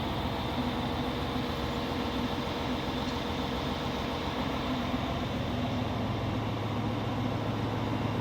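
Train running noise: a steady mechanical hum with a few held tones, its low drone growing stronger about five and a half seconds in.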